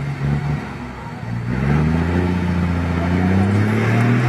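Truck engine revving up: its pitch rises from about a second and a half in, then holds steady at a higher pitch.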